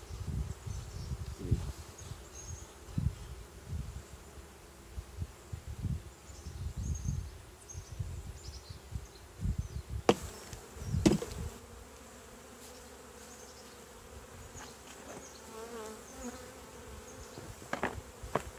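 Honey bees buzzing steadily around an open nuc hive, with dull low rumbles of handling during the first half. Sharp knocks of hive parts being set back together come twice about ten and eleven seconds in, and again near the end.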